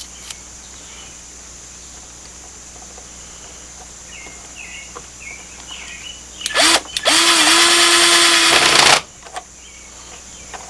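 Cordless drill with a screwdriver bit driving a small 1-inch screw into wood: two quick blips of the trigger, then about two seconds of steady running that stops suddenly.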